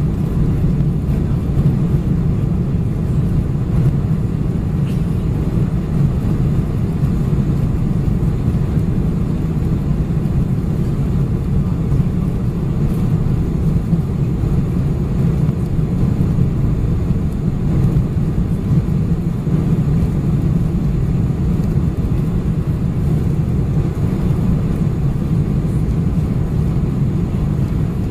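Steady rumble of a Boeing 747-400's engines and airflow heard inside the passenger cabin, even and unchanging.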